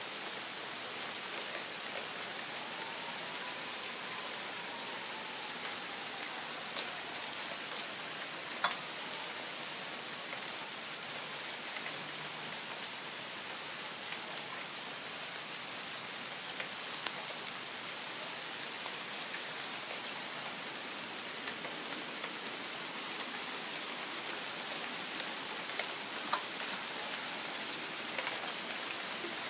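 Rain and small hail falling steadily on trees and the ground, a continuous even hiss with an occasional sharp tick.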